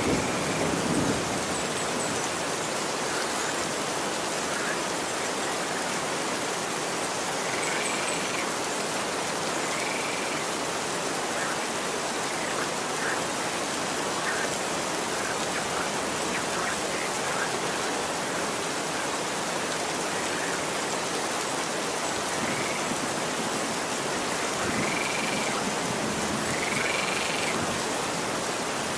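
Steady rain falling on a street, an even hiss. Short, high animal calls break through it every few seconds, most of them in the second half.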